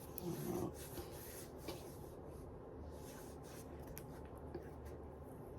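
Faint rubbing and a few light clicks of small objects being handled.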